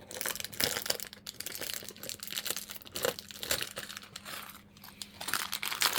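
Plastic packaging of Lego pieces crinkling and crackling irregularly as it is handled.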